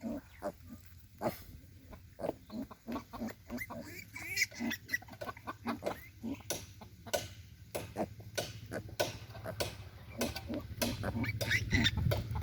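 Newborn piglets, a day old, squealing and grunting in short, frequent calls, with a few higher squeals. A steady low hum runs underneath and grows louder near the end.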